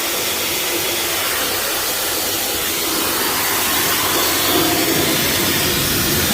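Dog blow-dryer blasting a steady rush of air over a wet dog's coat, growing a little louder and fuller about four seconds in.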